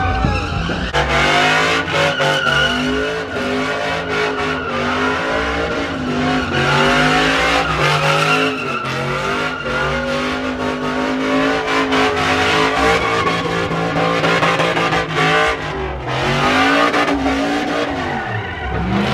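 Vehicle engine held at high revs, the pitch wavering, with tyres spinning and squealing in a burnout; the revs swell and drop away near the end.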